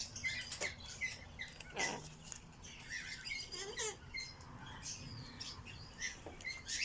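Birds chirping and tweeting: many short, scattered chirps, most of them at one high pitch, with a few faint clicks between them.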